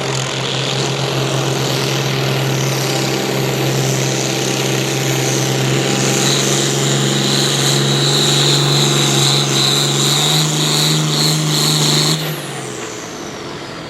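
Pulling tractor's engine held at full throttle under load down the track, with a high turbocharger whine building over the run. About twelve seconds in the throttle is cut and the engine note drops away, leaving the turbo whistle winding down in a falling pitch.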